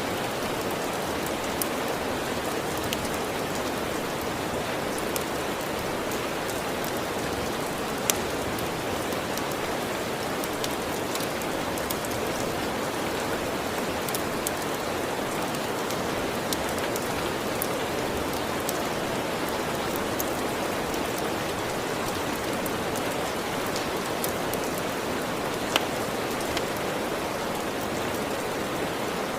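Steady heavy rain falling, with scattered sharp clicks every few seconds.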